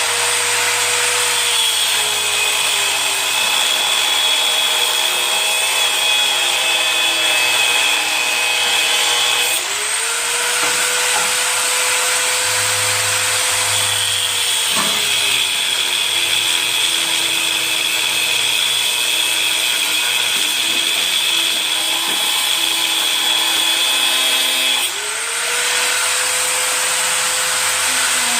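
Electric drill boring the engine mounting holes in the mower's frame, in three long runs. Each run spins up to a steady whine, then slowly sinks in pitch as the bit cuts. New runs start about 10 seconds in and about 25 seconds in.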